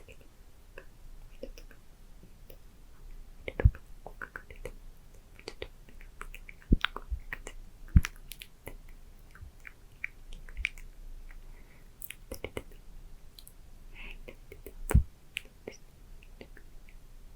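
Close-miked ASMR mouth sounds: wet tongue and lip clicks and smacks mixed with faint inaudible whispering. A few of the clicks are much louder than the rest.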